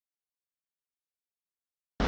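Silence: the sound track is blank.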